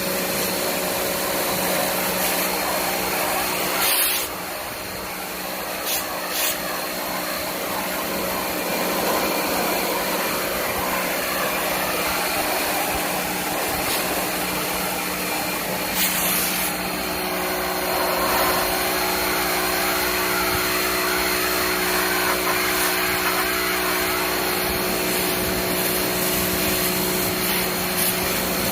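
Electric pressure washer motor running steadily with a constant hum, spraying water to rinse coil cleaner and dirt off an air conditioner's evaporator coil; it briefly drops about four seconds in.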